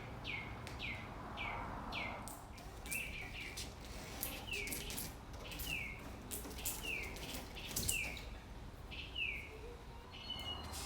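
A bird calling over and over: short downward-sliding chirps, about two a second, with a second, flatter call joining near the end.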